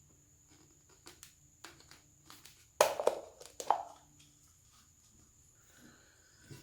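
Small hard objects being handled and set down on a work surface: scattered light clicks and knocks, with a louder cluster of knocks about three seconds in.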